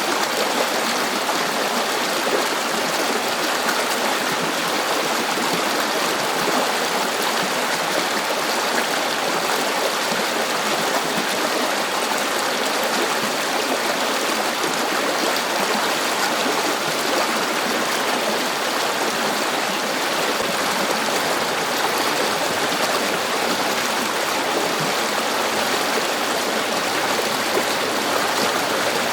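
River water flowing steadily over stones, a continuous rushing and babbling with no break or change.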